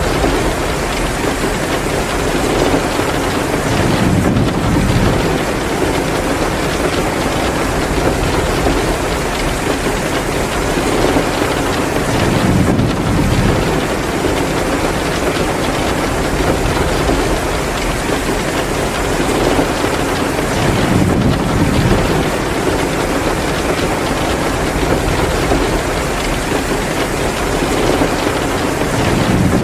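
Steady heavy downpour of rain, an even hiss, with a low rumbling swell coming back about every eight seconds.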